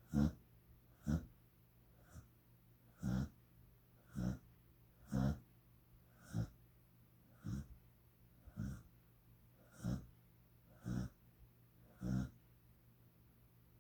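Dog snoring in its sleep: short, rasping snores about once a second, steady and evenly spaced.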